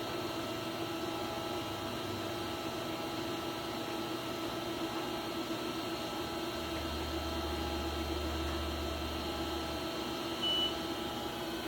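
Haas VF-2SS vertical machining center powered up and idle, its electronics and cooling fans giving a steady hum with several constant tones. A deeper hum comes in for about three seconds midway, and the control gives one short beep near the end.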